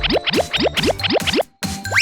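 Cartoon sound effects over children's music: a quick even run of springy rising boings, about four a second. After a brief break, a fast rising whistle comes near the end.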